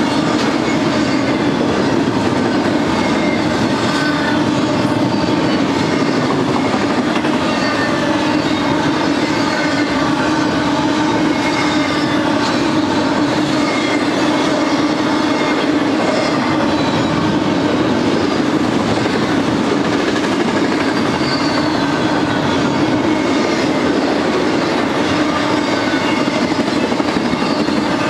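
Double-stack intermodal freight cars rolling past at a steady speed: a continuous rumble and clatter of steel wheels on the rails, with faint high wheel squeals coming and going.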